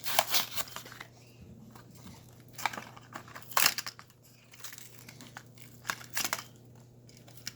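Plastic-and-cardboard blister packaging of a toy car crinkling and tearing as it is pulled open, in several short bursts with quieter handling between.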